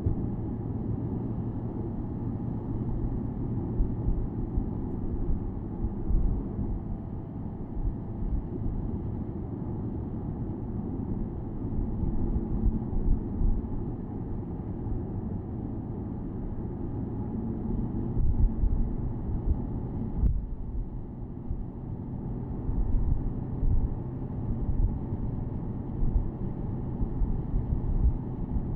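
Porsche Boxster S 987.2's 3.4-litre flat-six running at a steady cruise, with low wind and road rumble heard from the open-top cabin.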